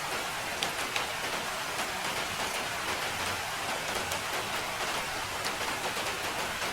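Steady rain falling, an even hiss of rainfall with many small individual drops ticking through it.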